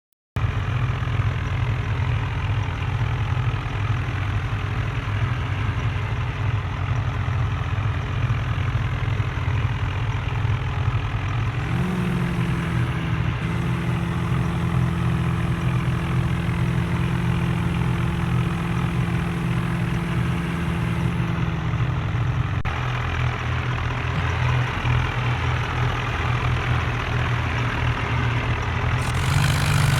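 Tractor diesel engines running steadily. From about twelve seconds in, a steady tone sounds over them for about ten seconds. The sound changes abruptly a little after that.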